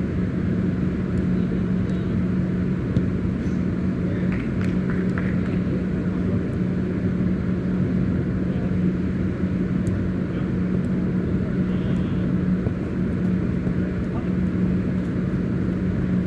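Steady low hum with a constant rumbling noise underneath, unchanging throughout, with a few faint ticks.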